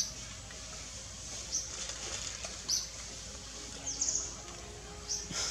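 A bird chirping outdoors: about five short, sharp, high-pitched chirps, a second or so apart, over a low steady background hum.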